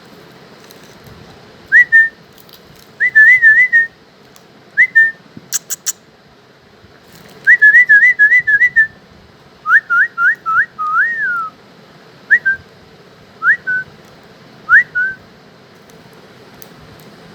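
Young German Shepherd whining to beg for food: bursts of high, thin whines, short rising squeaks and wavering trills with pauses between. A few sharp clicks sound about six seconds in.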